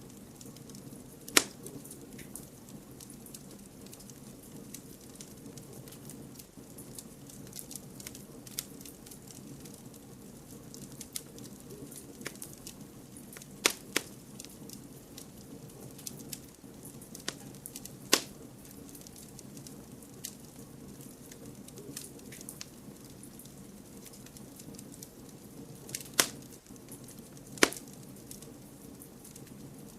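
Wood campfire burning: a steady low rumble of flames under constant small crackles, with a handful of sharp, loud pops from the burning wood.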